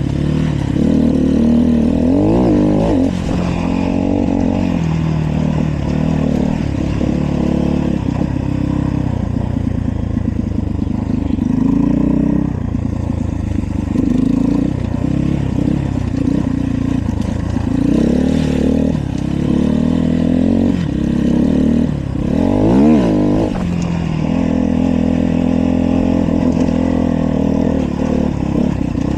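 Dirt bike engine running under way, its pitch rising and falling repeatedly as the rider revs and eases off.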